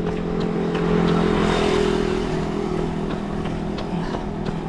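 A motor vehicle passing close on the road: a steady engine hum with tyre and engine noise swelling about a second and a half in, then easing off.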